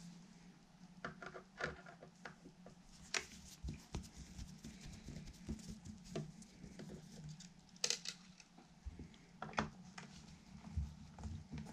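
Small irregular clicks, taps and light rustles of hands handling tools and parts during guitar assembly, a few sharper clicks standing out, over a faint steady low hum.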